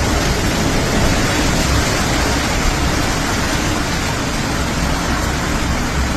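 Typhoon wind and rain: a steady rush of noise, with gusts buffeting the microphone in an uneven low rumble.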